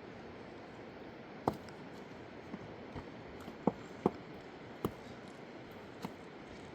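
About seven sharp, short knocks at irregular intervals, four of them louder, over a steady rushing background noise.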